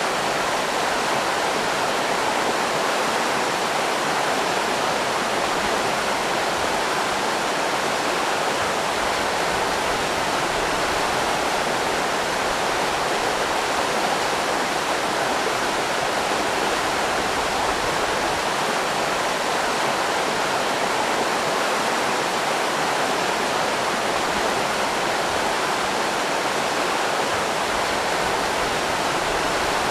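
River rapids rushing: a steady, unbroken roar of water.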